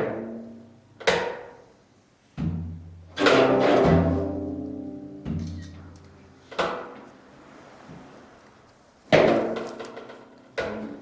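Korean zither music: sparse, sharply struck or plucked notes about a second or two apart, each with a percussive thunk and a ringing, decaying tone, with low notes held for a few seconds in the middle.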